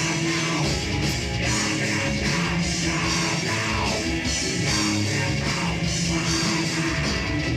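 A live heavy metal band playing: distorted electric guitars over bass and a pounding drum kit with a steady beat.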